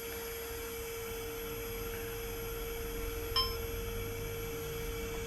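A steady, even electronic tone, with a low rumble beneath it and a single short click about three and a half seconds in.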